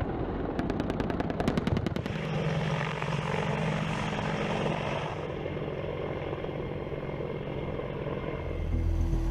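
A burst of rapid cannon fire, about ten shots a second, from an AH-64 Apache's 30 mm M230 chain gun, ending about two seconds in. The helicopter's engines and rotor then run steadily.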